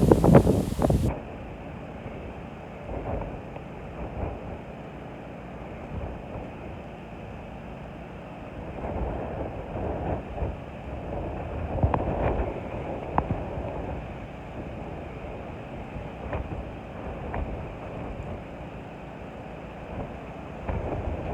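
Gusty wind from a passing hurricane blowing across the microphone: a low rushing rumble that swells and eases in gusts, loudest in the first second and again a few times midway and near the end.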